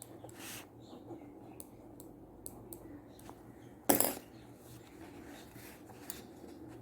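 Faint scattered clicks and light taps of small hard objects over a low steady hum, with one louder sharp tap about four seconds in.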